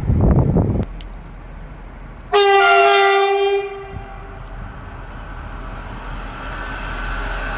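A train's horn sounds one blast of about a second and a half, its pitch dropping slightly. Low rumbling comes before it, and near the end the running noise of a train builds up with a steady rising hum.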